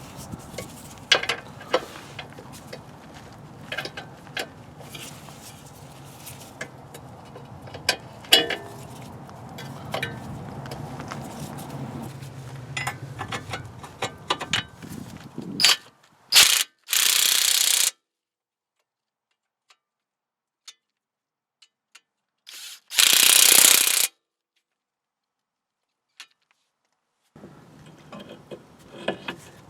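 Metal tools and car parts clicking and clanking during front wheel bearing work, then two short loud bursts of noise separated by silence.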